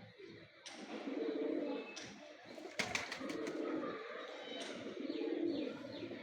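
Pigeons cooing: about three rounds of low, throaty coos, with a short run of sharp clicks about three seconds in.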